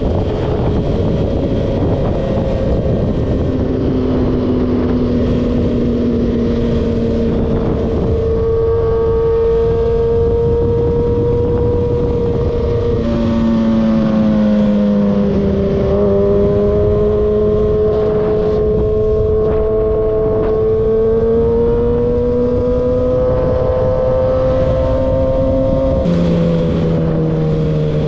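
Motor vehicle engine running steadily, its pitch slowly rising and then dropping in steps about halfway through and again near the end, over a constant low rumble.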